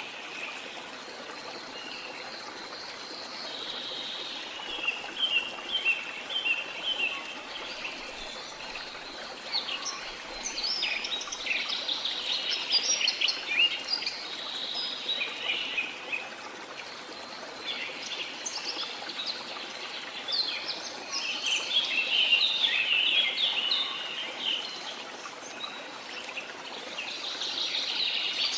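Tropical forest birds chirping and singing in repeated bursts of quick, high calls over the steady rush of a waterfall.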